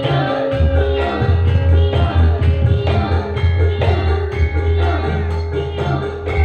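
Sragenan-style Javanese dance music: percussion keeping a steady beat under a heavy bass and a held melody line.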